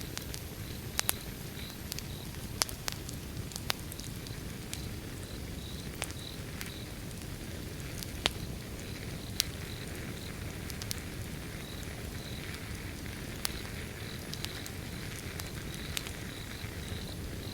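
Wood fire burning: a steady low rumble with scattered sharp crackles and pops every second or so. A cricket chirps in a steady pulsing rhythm behind it.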